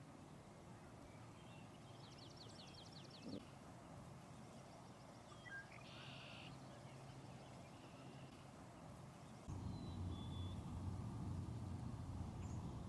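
Quiet outdoor ambience with a few wild bird calls, including a quick high trill of about ten notes about two seconds in. A few seconds before the end a louder, steady low noise starts abruptly.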